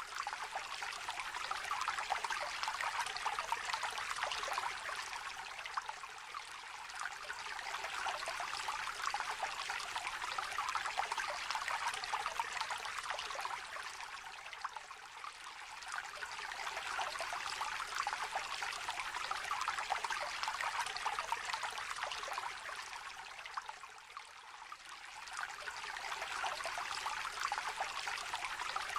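A small river trickling and babbling: a steady rush of water that swells and eases about every eight to nine seconds.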